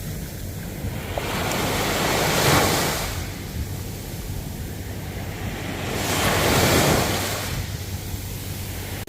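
Ocean waves washing onto the shore: two waves surge in and recede, peaking about two and a half and seven seconds in, over a steady low rumble of surf.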